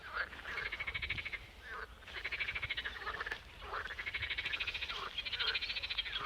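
Frogs calling in a chorus: overlapping rapid pulsed trills, each lasting about a second, repeating with short gaps.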